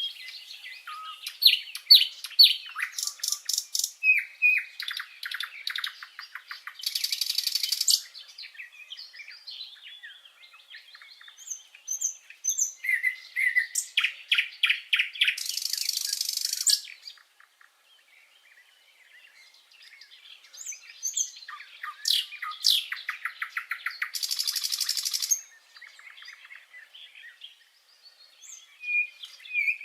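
Songbirds singing and calling: varied high chirps and fast trills, broken by three dense buzzing bursts about a second long, near 7, 15 and 24 seconds in.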